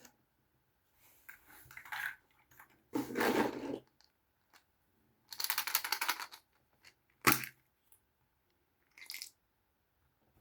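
Small plastic toys and their packaging being handled: several bursts of crinkling and rustling, with a sharp click about seven seconds in.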